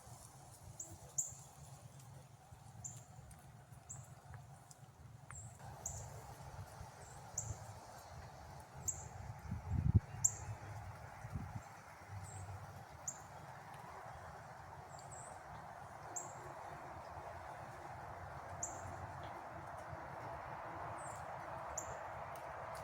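A small bird repeating a short, high chirp about once a second, over a low rumble and a steady hiss that comes up about six seconds in, with a brief knock near the middle.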